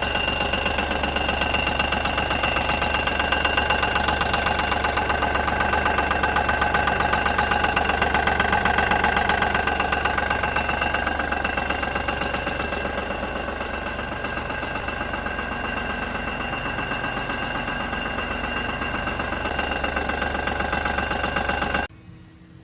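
Smart Fortwo 451 engine running steadily with a rapid, regular knocking, the clunking noise from the gearbox housing that marks a fault there. The sound stops abruptly near the end.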